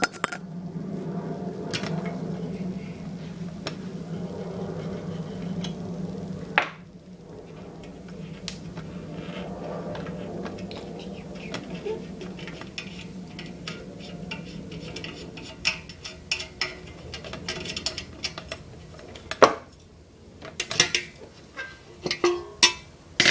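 Light metallic clinks and taps from a Mamod TE1A model steam tractor's metal parts being handled as a screw is undone and its canopy is taken off. A steady low hum runs for the first six seconds or so and stops with a click, and the clinks come thicker in the last eight seconds.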